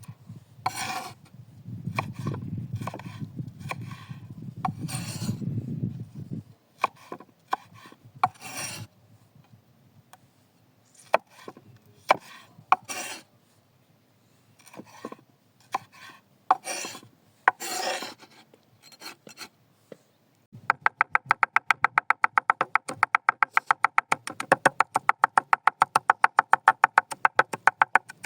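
Food-preparation handling sounds: scraping and knocking of utensils on a wooden surface, irregular at first, then rapid, even strokes several times a second for the last several seconds.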